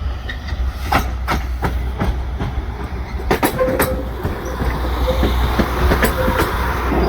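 A diesel multiple-unit train running through the station: a steady low engine rumble with its wheels clicking over the rail joints about three times a second.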